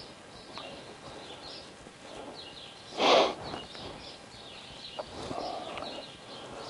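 Small birds chirping over and over in the background, with one short loud burst of sound about three seconds in.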